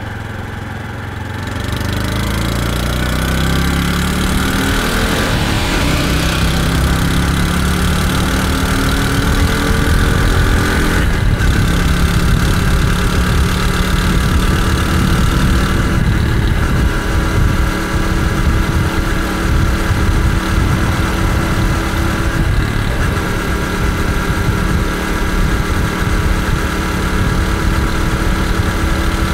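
Honda CT125 Hunter Cub's 125 cc single-cylinder four-stroke engine pulling away and gathering speed. Its pitch rises over the first few seconds, then drops back at upshifts about ten and sixteen seconds in, with wind noise from riding.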